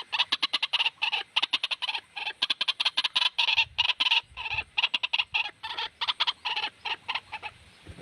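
White-breasted waterhen (ruak-ruak) lure recording: fast runs of repeated harsh croaking calls, several a second, thinning out near the end.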